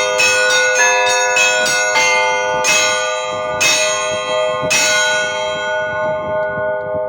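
Russian Orthodox church bells rung by hand: a quick run of strokes on the small bells, then three single strokes about a second apart, with the bells left ringing and slowly fading.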